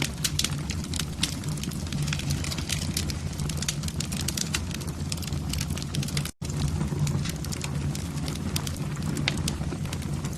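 Fire burning in a fireplace: dense, irregular crackling over a steady low rumble, cutting out for an instant a little past the middle.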